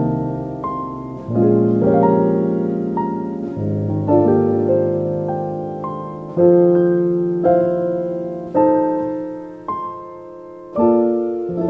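Slow, gentle solo piano music: single notes and chords struck about once a second, each left to ring and fade, with a short lull near the middle.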